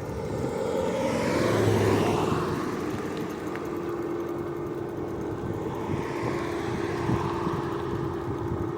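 An engine-driven vehicle passes, swelling to its loudest about two seconds in and then easing off, with a steady engine hum lingering afterwards.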